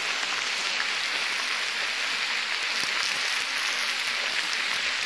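Meat and onions sizzling steadily in a disco (plow-disc wok), a dense hiss with small crackles through it.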